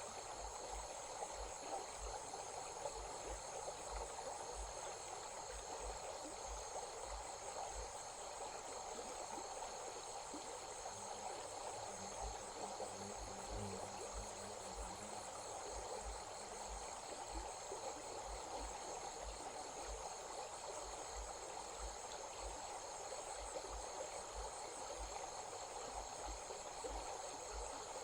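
Insects, crickets by their sound, trilling steadily in a fast pulse over the even rushing of a stream.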